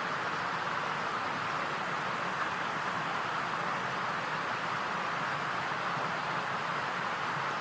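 Steady rushing noise, even throughout, with no music or voice.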